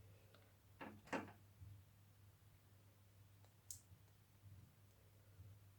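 Near silence with a faint steady low hum, broken by small handling clicks and rustles as leaves are pressed onto paper: two close together about a second in and one sharp tick near four seconds.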